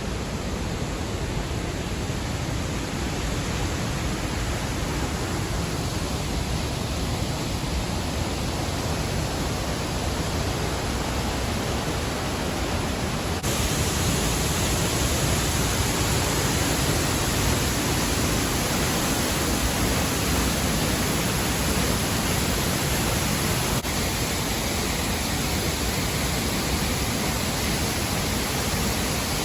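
Steady rushing of a waterfall, an even hiss of falling water. Its tone changes abruptly about 13 seconds in, becoming brighter, and again near 24 seconds.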